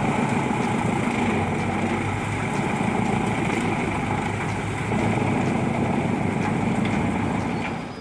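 Large wood chipper running steadily: a constant engine drone with the dense noise of the machine working, shifting slightly about five seconds in and fading near the end.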